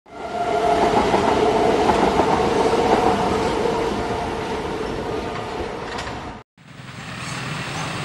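A train running past: a dense rumble with a steady held tone that swells in, slowly fades and cuts off abruptly about six and a half seconds in. Quieter outdoor background noise with a low hum follows.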